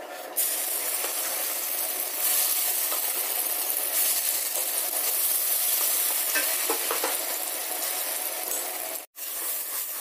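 Green ground flat-bean paste (shim bata) frying in hot oil in a wok. A sizzle starts suddenly about half a second in as the paste goes into the oil with dried red chillies, then continues steadily while a wooden spatula stirs it. The sound drops out for an instant near the end.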